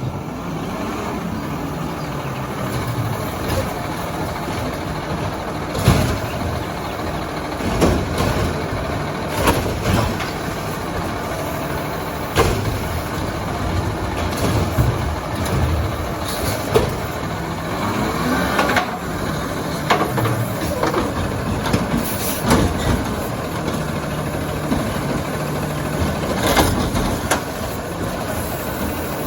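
Diesel Autocar ACX garbage truck running, with a string of sharp knocks and bangs over the steady engine sound.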